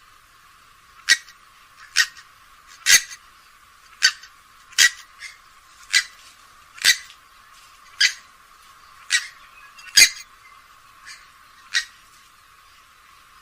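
Grey-headed swamphen giving a series of short, sharp calls, about one a second, about a dozen in all. The calls sound thin, with almost nothing in the low range.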